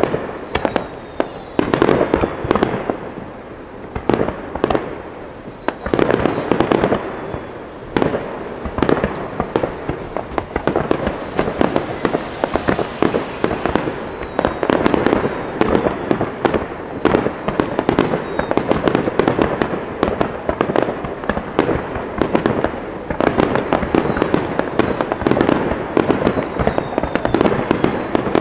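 Fireworks display: many aerial shells bursting in quick succession, sharp bangs overlapping with continuous crackle, with no let-up.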